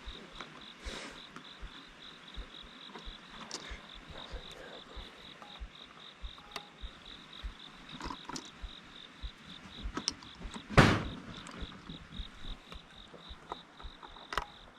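An insect trilling steadily in a fast pulsing rhythm, over scattered light taps. About eleven seconds in comes a single loud, sharp bang: a shotgun shot.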